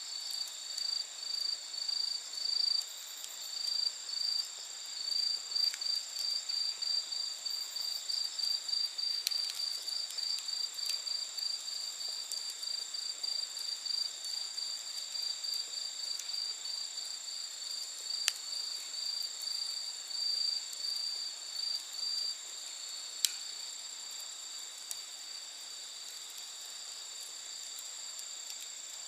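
Night insects: one cricket-like insect chirping loudly and rhythmically at about three chirps a second until it stops about three-quarters of the way through, over a steady high trill from other insects. A few sharp crackles from the campfire.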